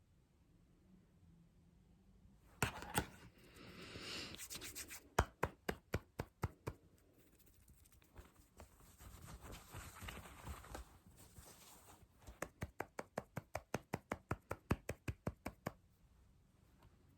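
Fast tapping and scratching by hand, close to the microphone, after a quiet start. Two sharp taps come first, then a spell of scratching and a run of quick taps. A second spell of scratching follows, and near the end a steady run of taps at about four a second.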